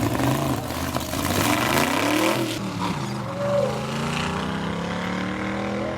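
Vintage drag-race car engine revving hard and loud, its pitch rising and falling. About two and a half seconds in the loudest part cuts off, leaving engines running more steadily and quietly.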